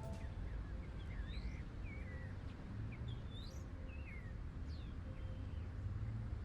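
Birds chirping: short sliding calls every second or so over a steady low background rumble.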